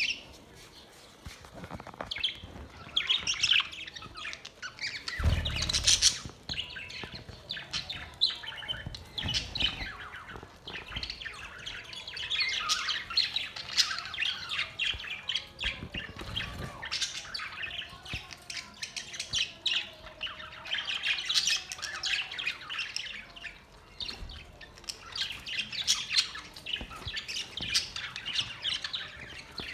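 Budgerigars chattering and warbling in a flock: a continuous mix of chirps, twitters and squawks. A brief low thump sounds about five seconds in.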